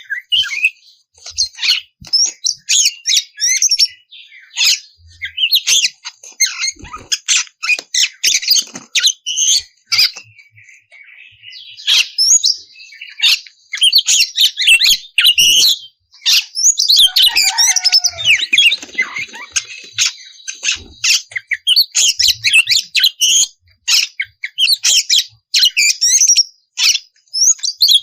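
Oriental magpie-robin singing loudly and nonstop: rapid runs of varied whistles, chirps and harsh rasping notes, with a brief quieter lull about ten seconds in.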